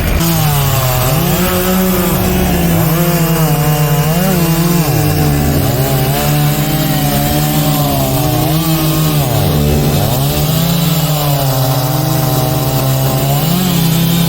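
Gas chainsaw cutting into a fallen tree trunk. The engine runs at high revs and bogs down under load several times, then picks back up.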